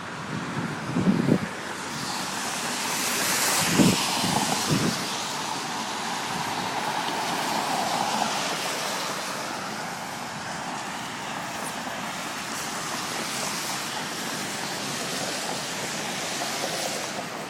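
Steady outdoor rushing noise that swells about three to four seconds in, with a few short knocks in the first five seconds.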